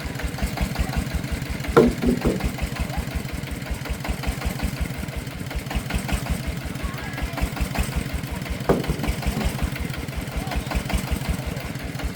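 Single-cylinder diesel engine of a công nông agricultural vehicle running with a steady, rapid thump. Two sharp knocks cut in, about two seconds in and again near nine seconds.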